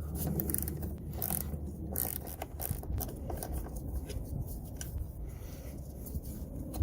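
A hand tool with a T25 Torx bit working the fog-light screws: irregular clicks and scraping of metal on plastic.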